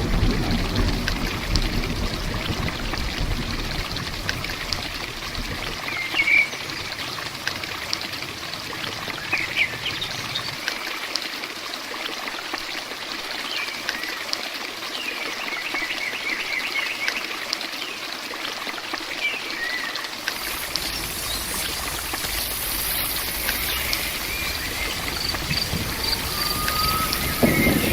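Steady heavy rain, with many individual drops ticking through it. A few short bird chirps come over it now and then.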